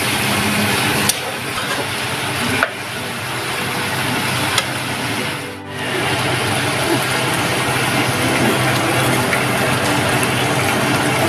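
Pork pieces sizzling as they fry in a metal wok, with a metal spatula scraping and clicking against the pan as the meat is stirred.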